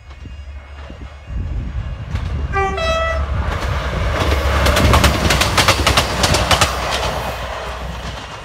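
Class 158 diesel multiple unit sounding a short two-tone horn, a lower note then a higher one, then passing close by: the underfloor diesel engines rumble and the wheels clatter quickly over the rail joints before the noise fades away.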